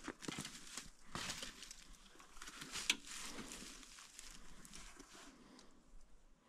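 Faint scattered clicks and rustling, with one sharper click about three seconds in.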